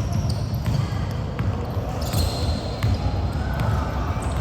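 A basketball bouncing on a gym's hardwood floor during play, with repeated dull thuds and short high squeaks, in the echo of a large hall.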